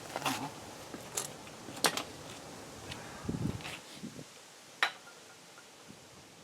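Scattered light clicks and knocks, about six in all, of metal brake parts being handled, with the sharpest knocks near 2 and 5 seconds in.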